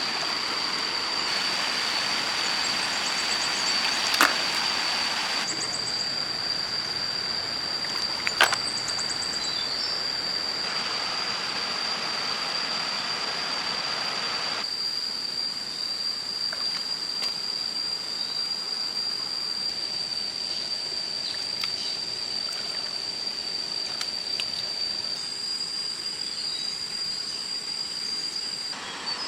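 Running river water, a steady rushing noise, with a constant high-pitched tone over it and two sharp knocks, about four and eight seconds in.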